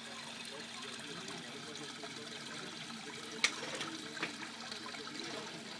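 Small ornamental waterfall splashing steadily into a goldfish pond. A sharp click about three and a half seconds in, and a fainter one soon after.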